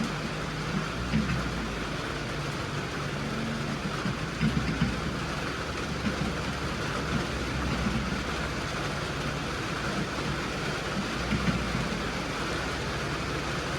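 A vehicle engine running steadily under the even hiss of rain.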